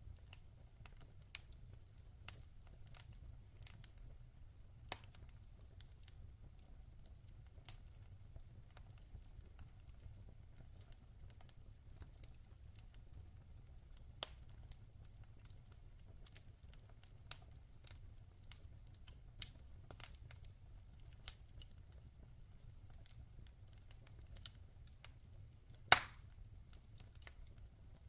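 Log fire crackling: sparse small pops and snaps scattered through, with one loud pop near the end, over a faint low rumble.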